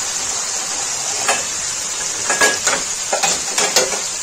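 Beef simmering in thick masala gravy in a kadhai, sizzling with a steady hiss: the bhunai stage, meat frying down in oil and spices. A few short crackles break through in the second half.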